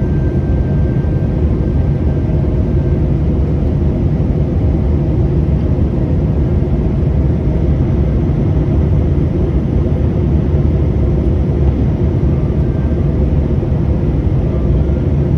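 Airliner cabin noise heard from inside the passenger cabin: a steady, even drone of engines and airflow, strongest in the low range, with no change throughout.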